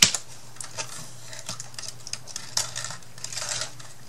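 Handling noises from hands-on craft work at a tabletop: a sharp click at the start, then a few lighter taps and a short rustle, over a faint steady low hum.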